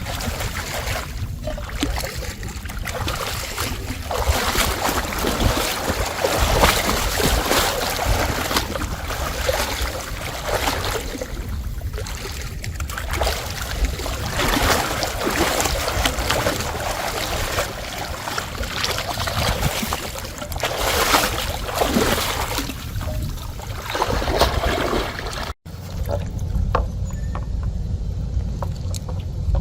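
Water splashing and sloshing unevenly, rising and falling. After a sudden cut near the end it gives way to a low wind rumble on the microphone.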